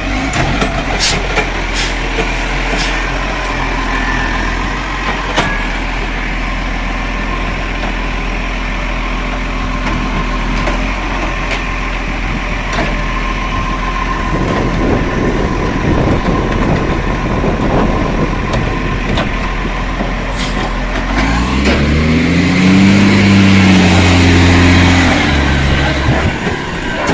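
Garbage truck engine running, with a few sharp clicks; about 21 seconds in it revs up and then falls back over several seconds.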